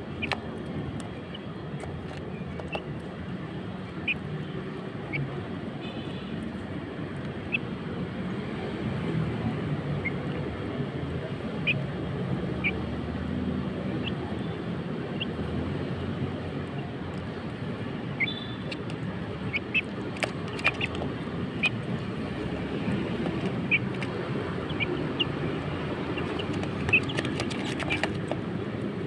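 Small chickens giving short, high chirps and peeps at irregular intervals over a steady low rumble.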